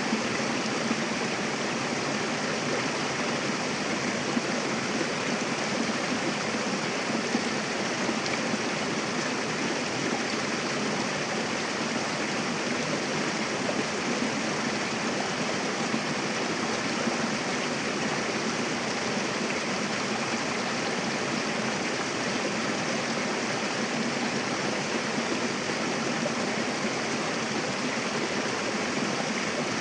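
Mountain river rushing over rocks: a steady, even wash of running water.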